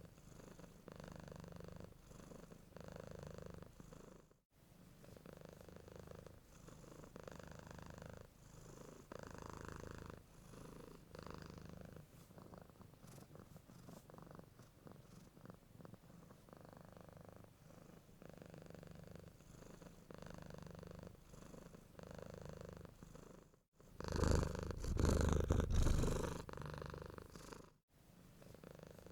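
Domestic cat purring close up, swelling and fading with each breath. It cuts out very briefly three times and gets much louder for about two seconds near the end.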